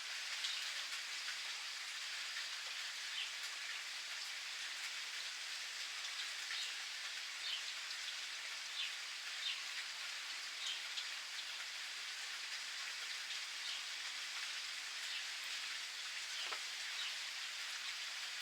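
Steady rain falling, an even hiss, with short high bird chirps scattered through it.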